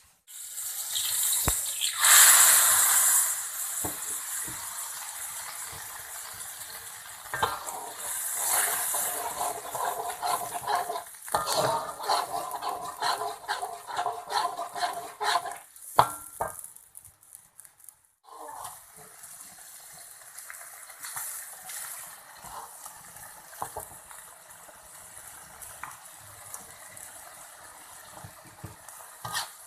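Kitchen cooking sounds in several short cuts: food sizzling in a pan while a utensil stirs and scrapes, clinking against the pan.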